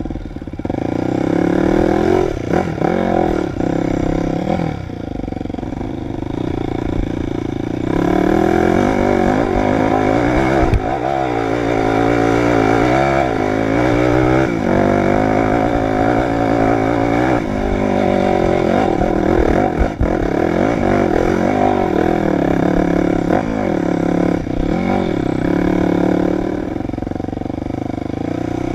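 Dirt bike engine running hard and revving, its pitch rising and falling again and again as the throttle is worked, with a few short knocks over the terrain.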